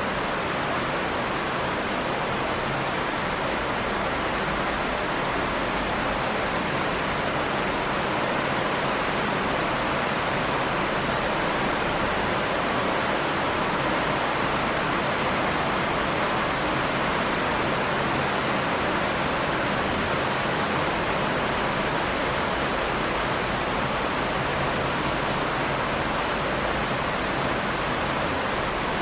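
Steady, heavy rain falling as an even, unbroken hiss.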